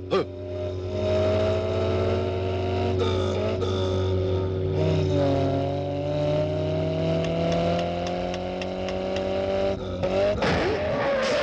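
Car engines running hard at speed, a steady drone whose pitch slowly rises as the cars accelerate, with a short burst of noise near the end.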